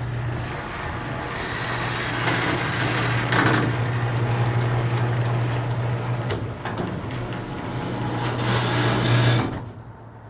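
Chrysler 360 small-block V8 running steadily on open headers with its choke held open, having fired up and idled once the flooding from the fully closed choke was cleared. It cuts off sharply about nine and a half seconds in.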